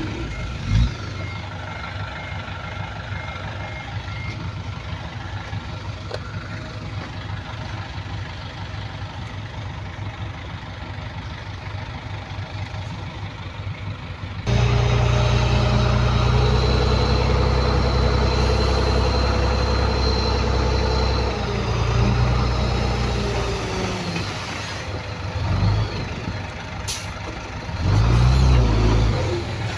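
Heavy diesel earthmoving machinery running: dump truck and bulldozer engines. A reversing alarm beeps in the first few seconds. About halfway through the engine sound jumps suddenly louder and stays up, swelling briefly near the end.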